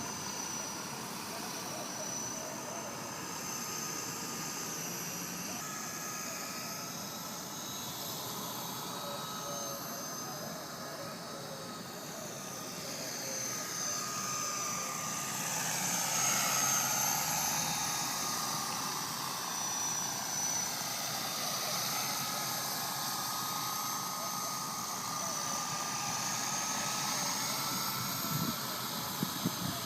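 Walkera 4-channel RC helicopter in flight: a steady high-pitched motor and rotor whine that shifts in pitch and grows louder about halfway through as it comes close. A few sharp knocks come near the end.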